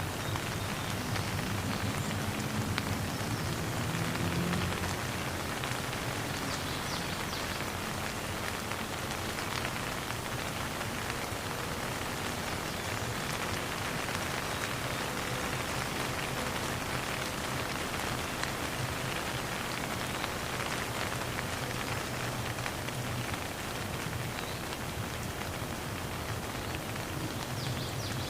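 Steady rain falling, a dense, even patter with no thunder. A low hum sits underneath, strongest in the first few seconds.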